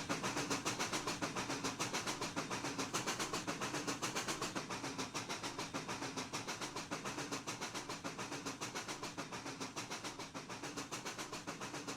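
Pennsylvania Railroad steam locomotives 7002 and 1223 working as a doubleheader, a hissy, even beat of about four to five pulses a second that slowly fades.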